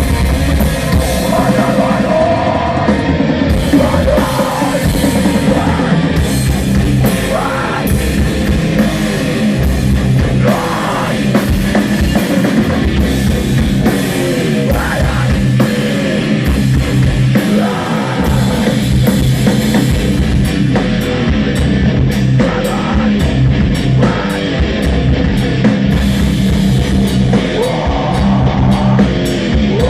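A rock band playing loud, heavy music, driven by a pounding drum kit.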